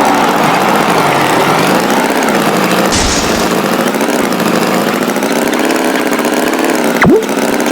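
Tractor engine running steadily. About seven seconds in, a quick, loud, falling swoop cuts in.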